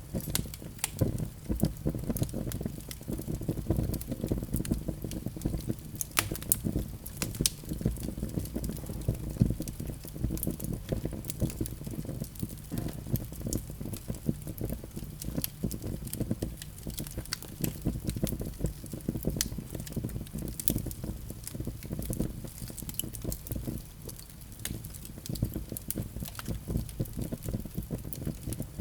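Wood fire burning in a fireplace: a steady low rumble of flame with frequent irregular crackles and sharp pops from the burning logs.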